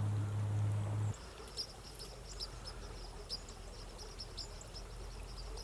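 A steady low hum cuts off about a second in. After it, a small bird gives a rapid run of short, high chirps over a faint outdoor background.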